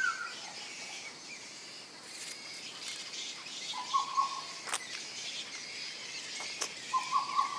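Forest ambience with bird calls: short runs of quick chirping notes at the start, about four seconds in and again near the end, over a steady high insect hiss, with a couple of sharp clicks in between.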